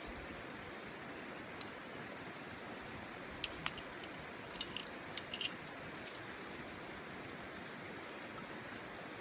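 Steady rushing outdoor noise, with a flurry of short, sharp clicks between about three and six seconds in.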